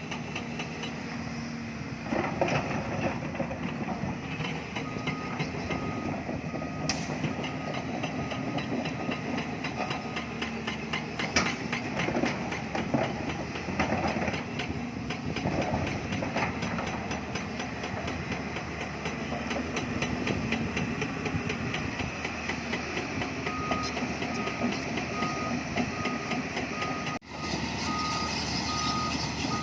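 Hyundai hydraulic excavator working a limestone cut: the diesel engine runs steadily under load, with occasional knocks and clatter. A reversing alarm beeps in an even series twice, from about five to ten seconds in and again near the end.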